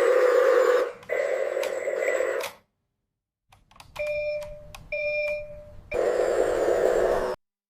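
Radio-controlled construction machine running with a steady rushing mechanical noise that starts and stops abruptly, broken by two electronic beeps about a second apart, like a reversing alarm, before the noise cuts off near the end.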